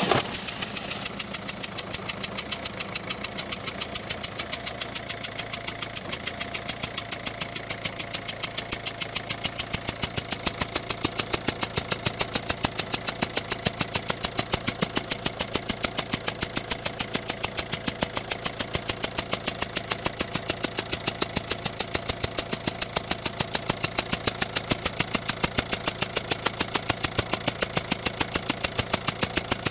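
Citroën Berlingo 1.6 HDi diesel engine just started, louder for about the first second, then settling into a steady idle with a sharp, regular tick several times a second. This is the noise the owner says appears at start-up and stays once the smoke fades, though the engine seems to run normally.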